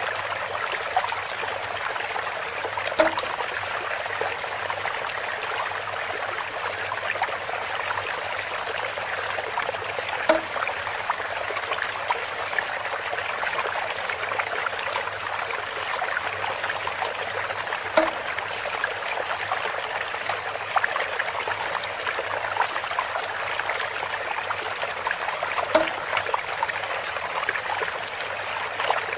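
Water trickling steadily through a bamboo spout. A short hollow knock sounds four times at an even pace, about every seven and a half seconds.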